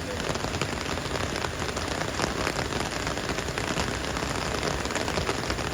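Very heavy rain pouring down, a dense steady hiss full of fine drop impacts.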